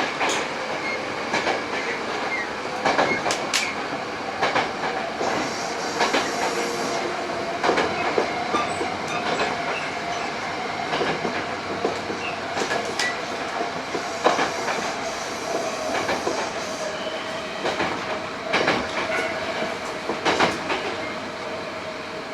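A Hankyu 8000 series electric train running at speed, heard from inside the car: steady rolling noise with irregular clicks and knocks from the wheels over rail joints, and a faint steady whine underneath.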